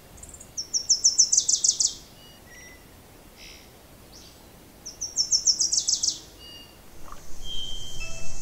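A bird singing: two runs of rapid, evenly repeated high notes, each about a second and a half long and dropping slightly in pitch, about three seconds apart, over faint outdoor background noise. Chime-like music starts near the end.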